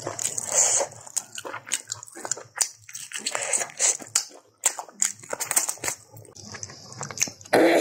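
Close-miked eating of a chicken leg by hand: biting and chewing the meat off the bone, heard as a string of irregular mouth clicks and smacks.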